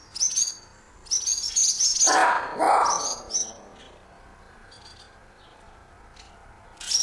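Swallows giving rapid, high twittering alarm calls in bursts while defending their nest, with a quieter stretch of faint calls in the middle and a new burst at the end. A lower, rougher sound rises under the calls around two to three seconds in.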